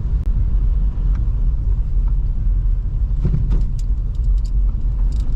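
Steady low rumble of a 2005 Toyota Highlander driving over a slushy winter road, with a few short ticks a little past halfway.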